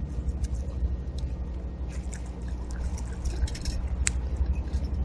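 Backyard bird-feeder ambience: faint short chirps and clicks from small birds, one sharper chirp about four seconds in, over a steady low rumble.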